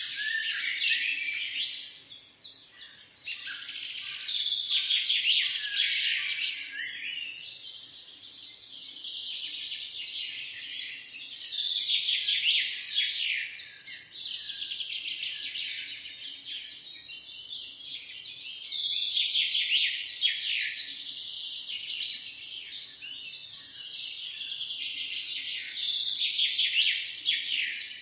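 Small birds chirping and singing, a dense run of quick, high, overlapping notes that swells louder and fades back every few seconds.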